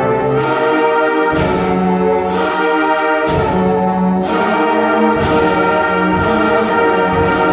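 Middle school beginner concert band playing held brass chords, with percussion strikes about once a second.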